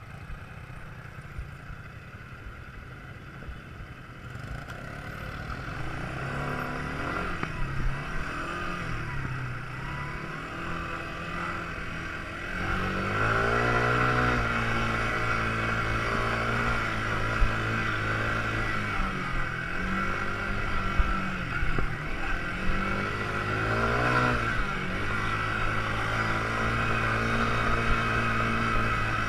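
Quad bike engine running and being revved up and down, its pitch rising and falling several times. It grows louder about twelve seconds in.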